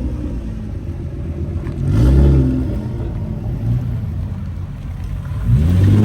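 Car engine revving, the pitch rising and falling in a short burst about two seconds in and again near the end, with engine rumble between.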